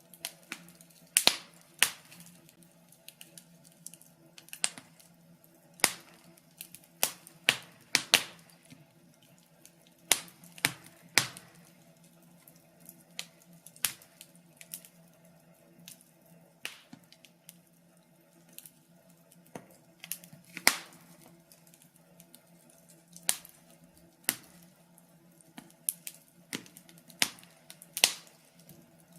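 Wood fire in a fireplace crackling: irregular sharp pops and snaps, some loud, a second or so apart, over a faint steady low hum.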